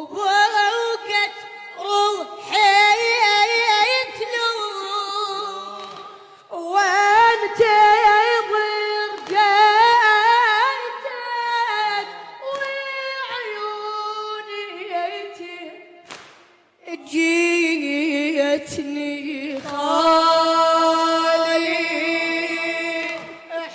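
Unaccompanied high young voice chanting a Husseini religious poem in Iraqi Arabic, with wavering, ornamented pitch. It comes in long phrases with short breaks about six and sixteen seconds in.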